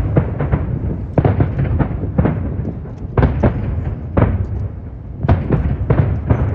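Aerial fireworks shells bursting in quick succession: a sharp bang about every second, some in tight clusters of several reports, over a continuous low rumble of booms.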